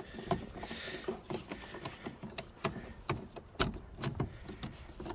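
Irregular clicks and light knocks of hand work on a 1990 Dodge Grand Caravan's door: a part being worked loose from the door trim.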